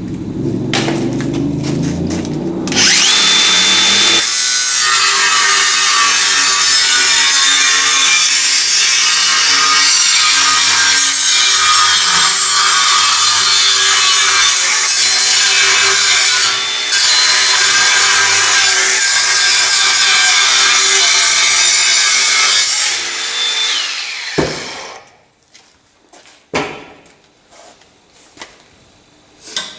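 A power tool cutting through a metal bar. It starts a few seconds in and runs at a steady high-pitched whine with a harsh cutting noise for about twenty seconds, then winds down and stops. A few knocks of the workpiece being handled follow.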